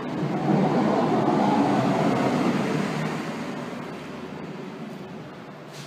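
Snowplow truck plowing snow as it passes, a dense noise of engine and blade on the road that is loudest at first and then fades steadily as the truck moves away.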